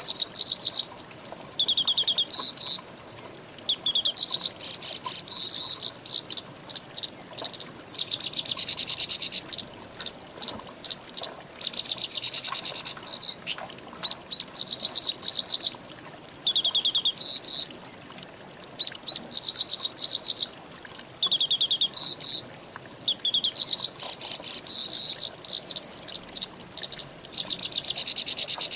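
Songbirds singing in quick repeated phrases of high chirps and trills, with short pauses between phrases, over a steady high insect drone.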